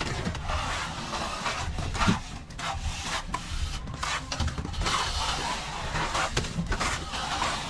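Plastering trowel scraping and rubbing over a wall in irregular strokes, with a sharp knock about two seconds in.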